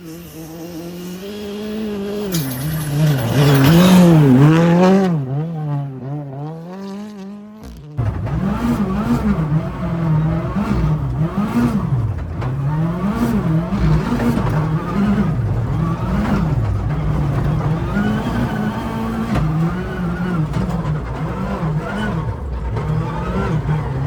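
Ford Fiesta ST rally car's turbocharged engine being driven hard, its pitch rising and falling every second or two as it revs up and drops back. About eight seconds in the sound changes abruptly to a louder, rougher run.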